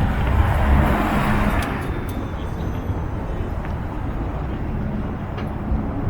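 A car's engine pulling away, its note loud at first and fading over the first two seconds, then a steady low engine rumble.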